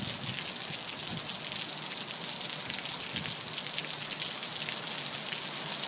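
Steady rain falling, a constant hiss with many small drops ticking sharply on a nearby surface.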